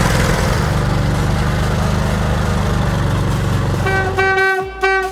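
A heavy vehicle's diesel engine running loudly and steadily, cutting out sharply near the end. Over its last second a horn sounds in several short toots.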